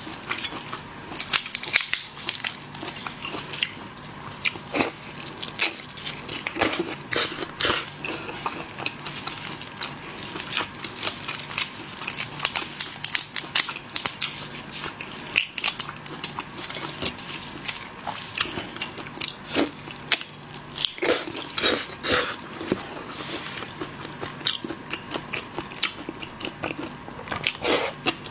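Close-miked eating of seafood: steady chewing with many short, irregular crunches and wet mouth clicks.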